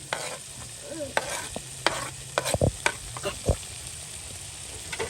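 Food sizzling as it fries in a pot, with a utensil stirring and several sharp knocks and scrapes of the utensil against the pot.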